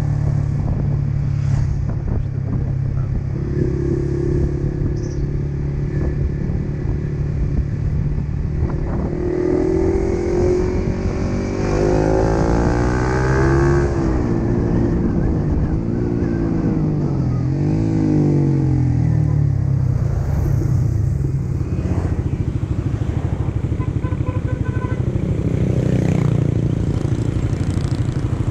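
Yamaha MT15's single-cylinder engine running under way, its pitch rising and falling several times through the middle as the throttle opens and closes.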